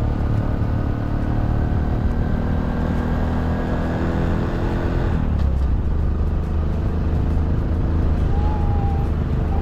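Vehicle engine running while driving, its pitch slowly rising and then dropping about five seconds in, with rumble from the road.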